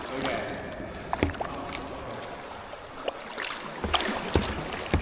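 Water moving around a kayak as it is paddled, with several sharp knocks against the boat.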